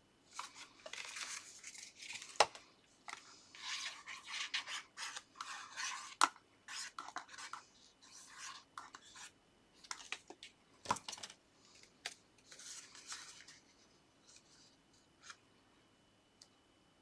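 Paper and card stock being handled and rubbed: irregular bursts of papery scraping and rustling, with three sharp taps about two and a half, six and eleven seconds in.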